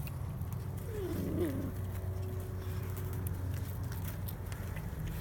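A puppy whines once, a short rising-and-falling whimper about a second in, over a steady low hum.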